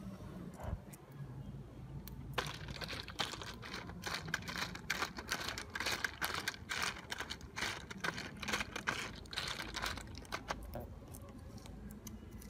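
Golden apple snails in their shells rattling and clicking against a thin tin pot as they are stirred with a stick over a wood fire: a fast, irregular run of clicks that starts about two seconds in and dies down near the end.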